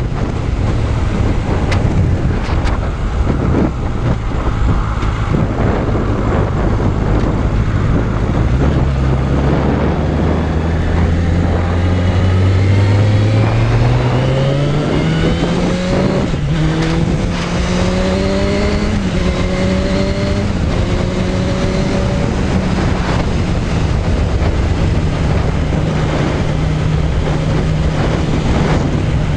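Suzuki Bandit 600's inline-four engine under way, with heavy wind noise on the microphone. About a third of the way in, the engine note climbs as the bike accelerates through several upshifts, then it settles to a steady cruise.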